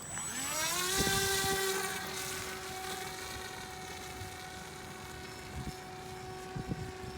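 Brushless electric motor and pusher propeller of a foam RC airplane spinning up to full throttle for launch: a whine rising in pitch over the first second, then holding steady.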